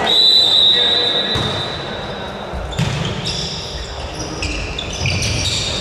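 A referee's whistle blown in one long, steady blast lasting nearly three seconds, then short high squeaks and low thuds of play on an indoor court, with the echo of a large hall.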